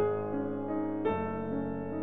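Background piano music, with new notes struck at the start and again about a second in.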